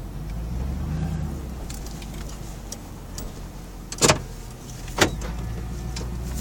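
Ford Lightning pickup's supercharged 5.4-litre V8 running at a steady low drone, heard from inside the cab while driving. Two sharp clicks cut through, about a second apart, a little past the middle.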